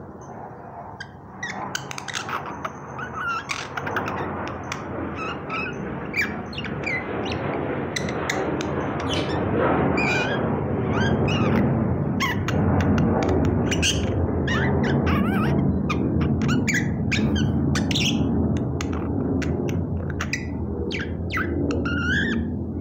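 Myna calling: a quick, irregular string of short squawks, chirps and whistled notes, over a steady low noise that grows louder a few seconds in.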